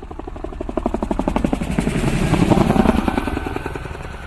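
Helicopter flying past: rapid, even beating of the rotor blades that grows louder to a peak about two and a half seconds in, then fades away.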